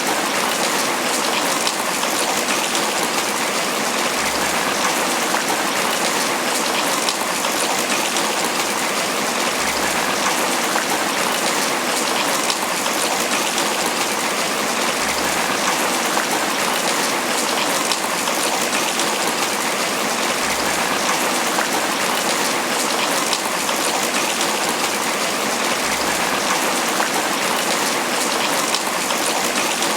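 Steady tropical rain pattering on banana leaves, an even hiss of many drops that does not let up.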